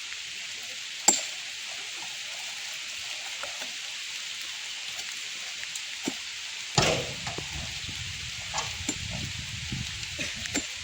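Steady hiss of rain, with a sharp knock about a second in and a louder thud about two-thirds of the way through, followed by a few seconds of low rumble and scattered small knocks.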